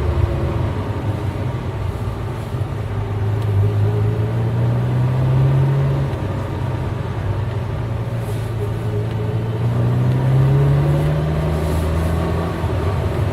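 A car's V8 engine pulling in fifth gear: its pitch climbs slowly for about six seconds, drops back, then climbs again to a higher pitch before falling away near the end.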